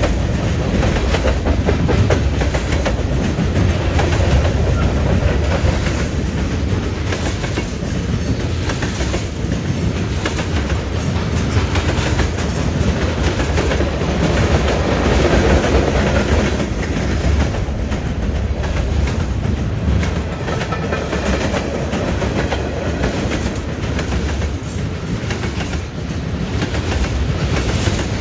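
A CN train's cars rolling steadily past, wheels clacking over the rail joints and the junction switch over a continuous low rumble.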